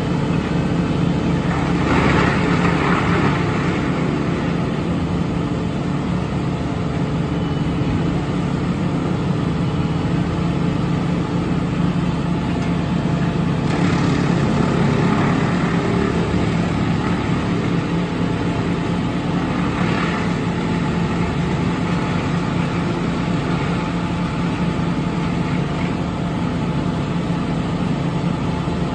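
Heavy truck diesel engine running steadily, with a few short hisses about two, fourteen and twenty seconds in.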